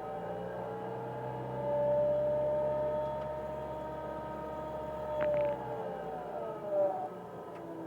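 Whining squeal from the running 1999 Mitsubishi Pajero iO's engine-bay accessory drive, several tones together, rising in pitch early on and falling again near the end, with a couple of short clicks. The cause is uncertain: mechanics have blamed worn alternator bearings, the air-conditioning compressor, or the water pump.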